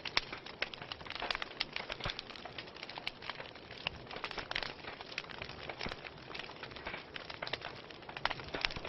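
Wood fire crackling and popping: many sharp, irregular snaps over a steady low hiss.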